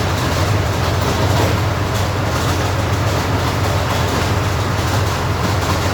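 Armoured recovery vehicle's engine running steadily with a low rumble.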